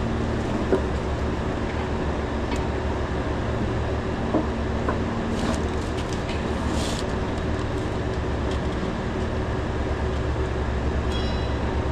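Steady low drone of running machinery, with a few light clicks and a brief hiss partway through.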